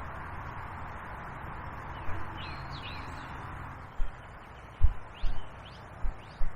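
Small birds chirping in two short bursts over a steady hiss of flowing river water. Several dull low thumps come in the second half and are the loudest sounds.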